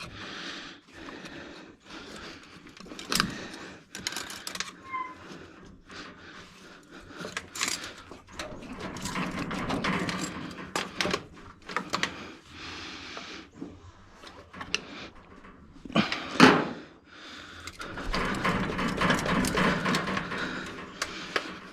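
Hand tools working on metal engine parts: scattered clinks and knocks with stretches of scraping, the loudest knock about 16 seconds in, as a stuck turbo fitting is worked loose.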